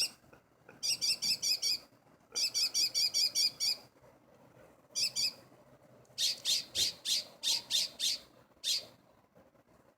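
A songbird mimicking car-alarm tones: runs of rapid, high warbling notes, about eight a second, each run lasting about a second and broken by short pauses. In the second half it switches to a slower series of sharp, separate notes, about four a second.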